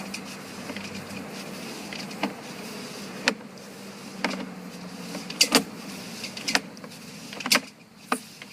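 Sewer inspection camera's push cable being fed into the pipe: sharp clicks and knocks about once a second over a steady low hum.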